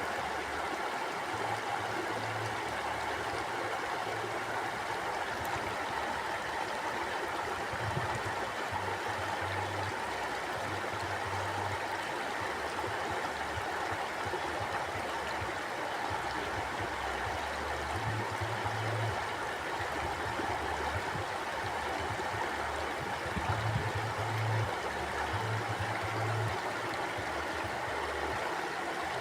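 Mountain stream flowing: a steady, even rush of water, with a low rumble underneath that swells and fades every few seconds.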